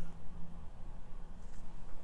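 Room tone: a steady low hum and faint background hiss, with no distinct sound event.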